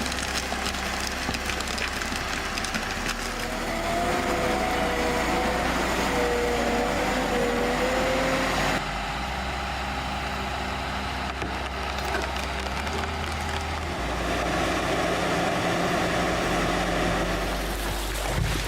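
Heavy machinery running steadily, with whining tones that waver in pitch. The sound changes abruptly about nine seconds in, where one clip cuts to another.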